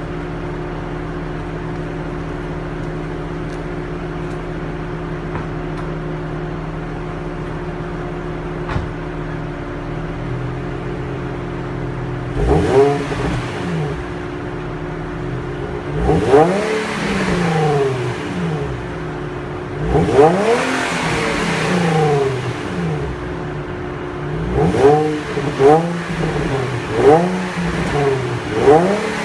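Completely stock exhaust of a 2007 Infiniti G35 coupe's V6 engine, idling steadily for about twelve seconds and then revving. Three longer revs rise and fall, then a quick run of short throttle blips comes near the end.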